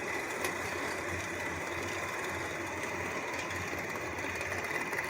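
HO scale model subway train running along the track: a steady whir of the small electric motors with wheel-on-rail clatter. One car sounds off the track, which the owner takes for a derailed car that will pop back on.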